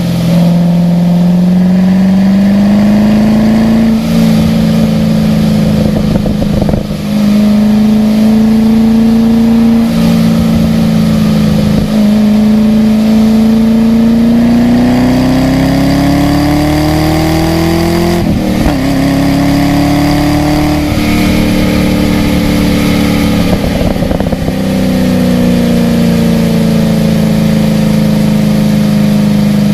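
Car engine driven hard on a wet race track. The pitch climbs and falls every few seconds, with short breaks where it jumps at gear changes, and eases down near the end.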